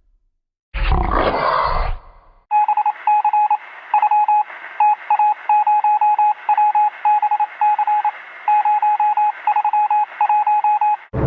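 A short noisy rustle about a second in, then touch-tone telephone keypad dialing: a long run of short beeps in quick groups, with thin, hissy line noise under them, stopping just before the end.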